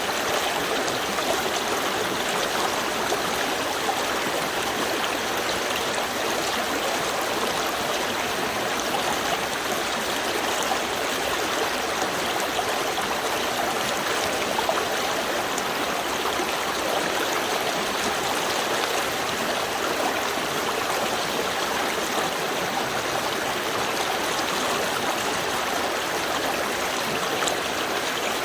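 Small river stream flowing steadily over stones, a continuous even rush of water with a light burble.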